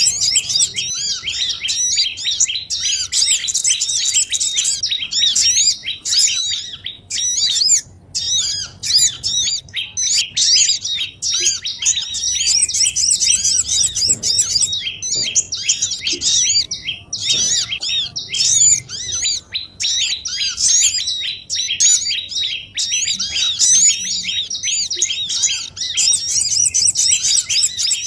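Dense chorus of many small birds chirping excitedly, rapid high arched notes overlapping with hardly a break: a bird-lure recording of agitated small songbirds, played to draw wild small birds in.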